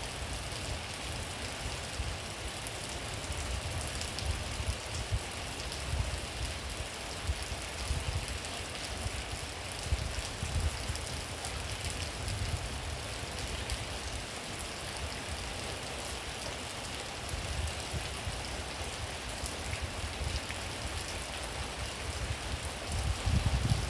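Steady rain falling, with scattered drips and a low rumble that swells and fades, loudest near the end.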